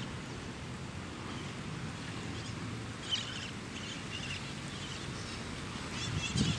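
Birds chirping in short scattered calls, a cluster about three seconds in and another near the end, over a steady low rumble.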